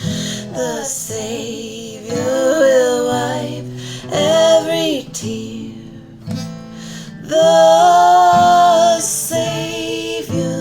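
Female voices singing long, drawn-out notes over acoustic guitar.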